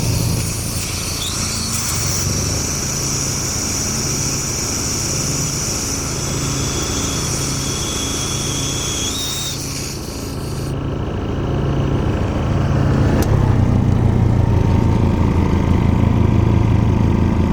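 Seiwa Sangyo SCPE-22GLS soundproofed engine-driven air compressor running, its engine note swelling and easing in a regular pulse about once a second. A steady high hiss runs over it until a little past halfway, and in the last third the engine runs louder.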